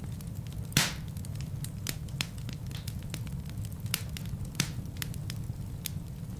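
Wood fire burning in a fireplace: a steady low rumble of flames with frequent sharp crackles and pops from the logs, two of them louder, about a second in and near the end.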